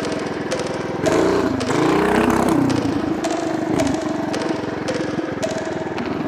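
Tillotson 212cc single-cylinder engine on a mini bike running, then revved hard about a second in with its pitch rising and falling, and running on at changing throttle.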